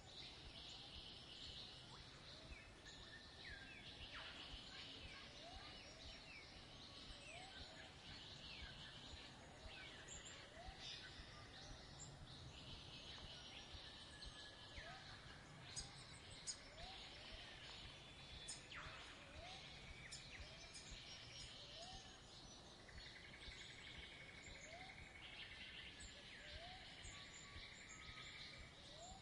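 Faint birdsong: many small chirps and trills, with a short low rising note repeated about once a second.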